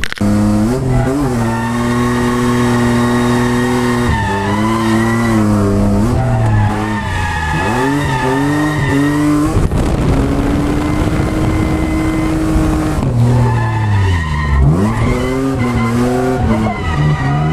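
Ford FG Falcon ex-taxi drift car's engine revving hard, its pitch repeatedly climbing and dropping, with the tyres squealing and skidding as the car drifts. The note holds steady for a few seconds in the middle of the run.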